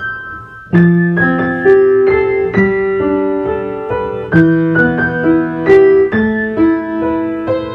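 Piano music: a melody with chords, notes struck and held.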